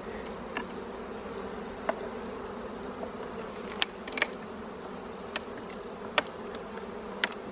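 Honeybees buzzing in a steady hum around an opened hive, with about half a dozen brief sharp clicks scattered through.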